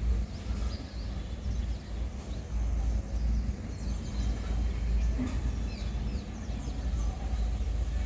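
Small birds chirping, with short high chirps scattered through, over a steady low rumble.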